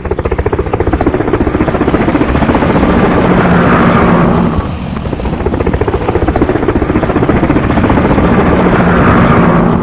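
Loud, rapidly pulsing vehicle sound effect, chopping like a helicopter rotor. It plays in two matching passes, each swelling with a higher whine near its end.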